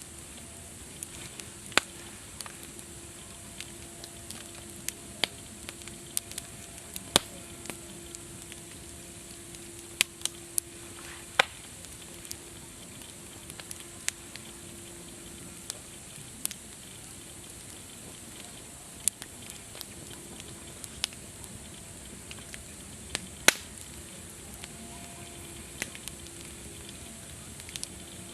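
Campfire burning, with irregular sharp crackles and pops from the burning wood over a steady hiss.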